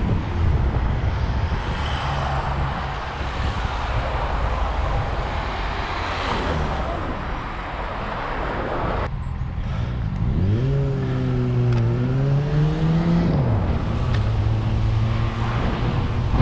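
Wind and traffic noise on the microphone of a moving bicycle. After an abrupt cut about nine seconds in, a car engine close by revs up as the car pulls away: its pitch climbs, dips briefly, climbs again and then falls off, and it runs more steadily near the end.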